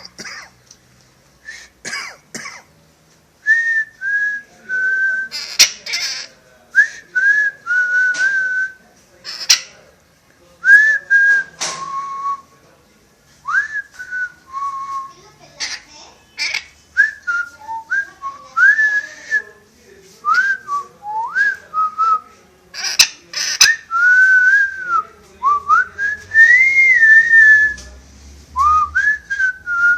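Parrot whistling a long run of short, pure notes and upward slides that level off, with brief harsh sounds between the whistles.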